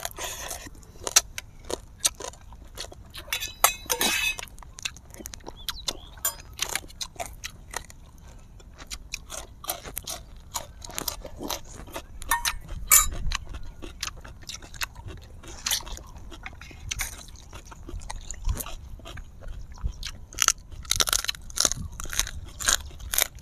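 Close-miked eating sounds: irregular crunching and chewing of crispy fried food, adobo fish and chicharron (pork cracklings), heard as many short sharp crackles and mouth clicks through clip-on microphones.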